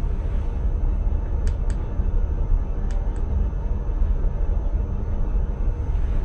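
Steady low rumble of an intercity train running, heard from inside the driver's cab. Four faint short clicks come between about a second and a half and three seconds in.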